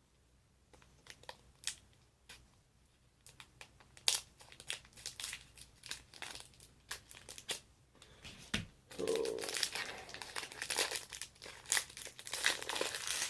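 Packaging of a Topps Inception trading-card box crinkling and tearing as it is opened by hand. It starts as scattered crackles, turns into dense crinkling about four seconds in, and is loudest in the last few seconds.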